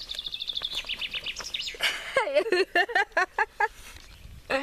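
A songbird singing a fast trill of high repeated notes that steps down in pitch and ends with a flourish. About two seconds in, a burst of about eight loud, quick pitched notes follows, lower and louder than the song.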